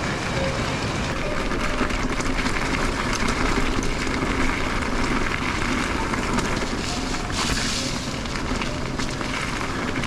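Steady rushing noise of a mountain bike being ridden over a rough, rocky trail: wind on the microphone and tyres on gravel, with small scattered rattles and clicks.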